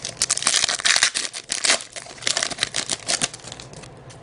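A trading-card pack wrapper crinkling and tearing as it is opened, a dense run of crackles that dies down after about three seconds.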